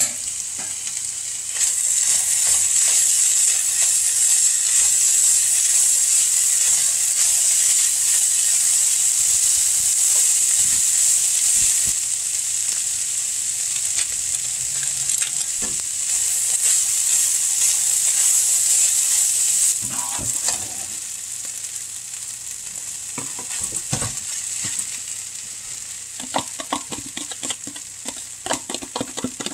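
Chicken, diced potatoes and black beans sizzling in a skillet while a slotted spatula stirs them. The sizzle is loud and steady for most of the first twenty seconds, then drops off, and later the spatula clicks and scrapes against the pan several times.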